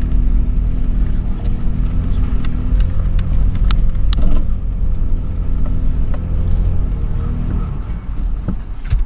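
2013 Toyota 4Runner's V6 engine running steadily as the SUV drives over sand, a low even drone with scattered light knocks and rattles. The engine note eases off slightly near the end.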